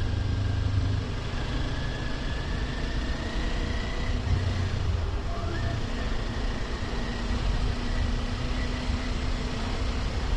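Kawasaki Ninja 400's parallel-twin engine running steadily on the move, under a constant rush of wind and road noise.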